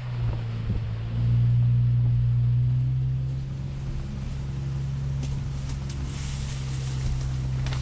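1999 Jeep Cherokee XJ's engine running steadily with a low, even hum, louder for a couple of seconds starting about a second in.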